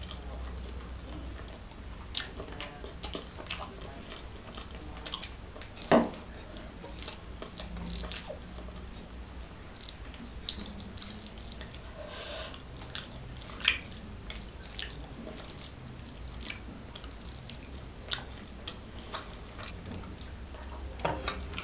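Close-miked wet chewing and mouth smacks of someone eating with a full mouth, scattered clicks throughout, with a louder smack about six seconds in and another near fourteen seconds.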